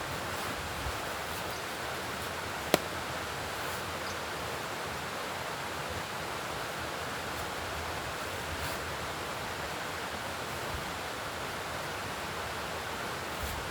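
Steady, even outdoor hiss, with one sharp click a little under three seconds in and a few faint ticks.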